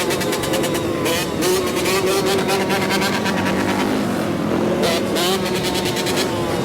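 Dirt bike engine running and being revved, its pitch climbing and falling with the throttle, easing off briefly about four seconds in.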